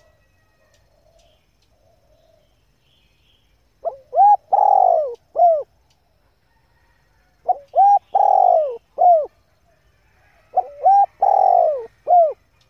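Female spotted dove cooing: three calls a few seconds apart, each a short phrase of three or four coos with a longer middle note.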